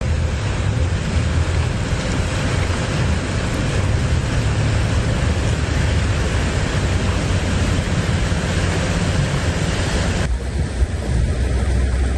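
Floodwater from an overflowing gully, rushing and churning in a loud, steady roar over a deep rumble. About ten seconds in the higher hiss drops away abruptly, leaving mostly the low rumble.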